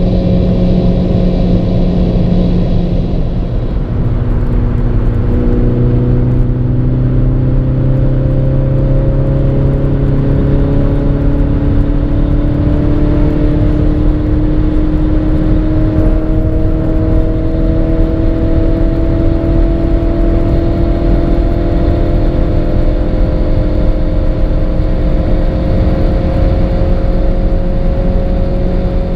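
Kia cee'd GT's 1.6-litre turbocharged four-cylinder at full throttle in sixth gear, heard from inside the cabin over steady wind and road noise. About four seconds in the engine note drops lower, then climbs slowly and evenly as the car pulls at high speed.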